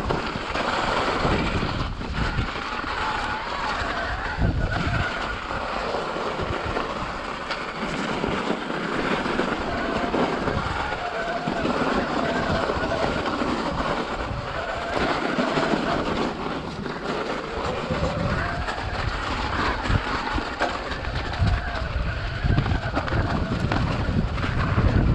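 Wind rushing over the microphone and the rolling noise of a mountain bike on a trail, with a faint wavering whine running under it.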